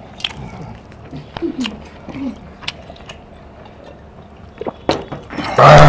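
Chewing and mouth noises of a man eating tough country chicken by hand, with scattered sharp clicks and a few faint murmurs. Near the end a man's voice breaks in loudly.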